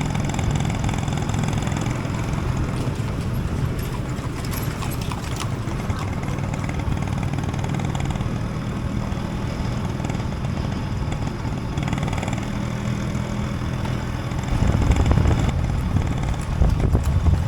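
Motorcycle engine running steadily while riding, heard from the pillion seat, mixed with wind and road noise. The low rumble grows louder for a moment about fifteen seconds in.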